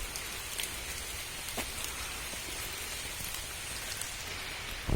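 Steady, even outdoor hiss with a few faint light ticks scattered through it.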